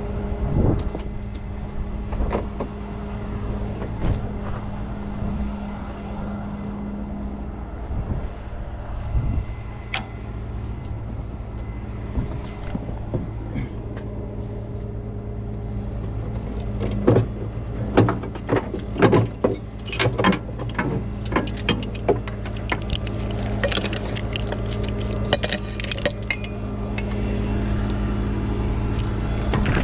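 Truck engine idling steadily. Through the second half come many sharp metallic clanks and clinks as tow chains and hooks are handled and attached.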